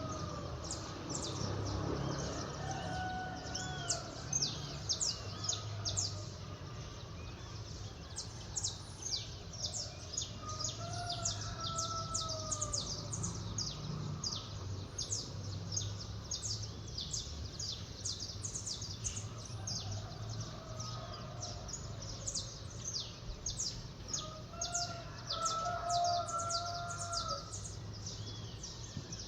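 Dense, rapid chirping of many small birds at dawn, with a rooster crowing several times in the distance over a low, steady hum of the waking city.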